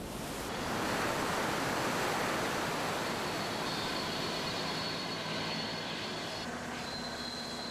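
A large volume of water released from holding tanks and rushing down rockwork ravines as a staged flash flood: a steady rushing that swells over the first second or so and holds.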